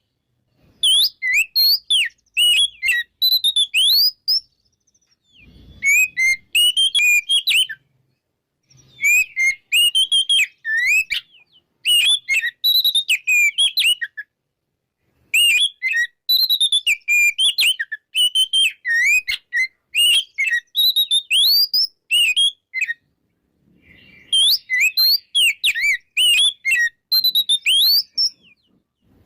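Oriental magpie-robin (kacer) singing its full, varied song: quick runs of whistled notes, slurs and glides, in bouts of a few seconds with short pauses between.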